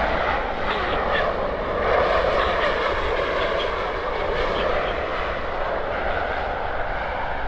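Jet engines of a WestJet Boeing 737-800 airliner on landing, a steady roar that swells slightly about two seconds in.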